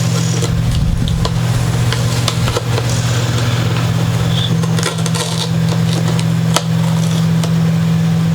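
A steady low hum runs throughout, with scattered light clicks and knocks on top.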